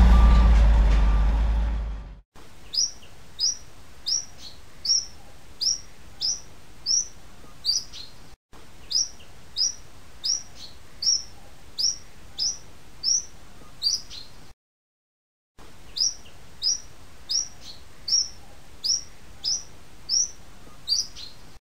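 A heavy truck's low rumble and reversing beeps fade out over the first two seconds. Then a small bird chirps over and over, each chirp a short falling note, more than one a second. The chirping drops out for about a second a little past two-thirds of the way through.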